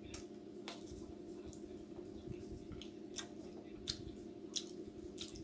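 A person chewing food and smacking their lips, with several short, sharp wet smacks spread through the moment. A steady low hum runs underneath.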